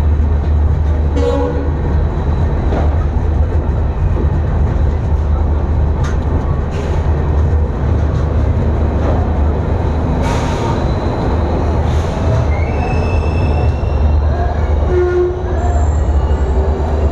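Passenger train running with a steady heavy rumble and rail clicks, with short high wheel squeals in the second half as it comes into the station.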